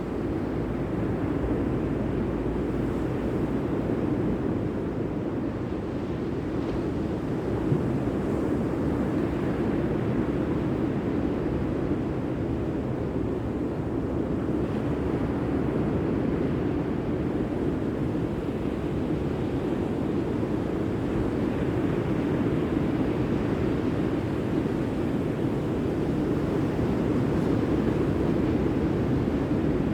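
Steady rush of sea surf mixed with wind on the microphone, a low even noise with no distinct wave breaks.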